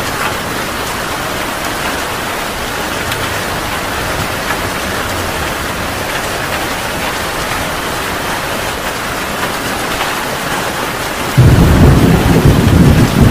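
Heavy rain pouring steadily, then about eleven seconds in a sudden loud clap of thunder that goes on rumbling.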